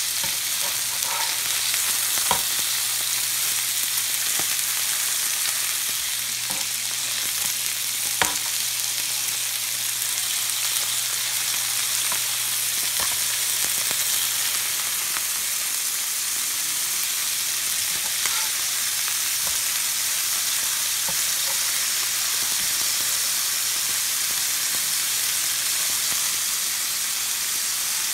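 Hamburger patties frying in a skillet: a steady, even sizzle with a few faint ticks and pops, over a low steady hum.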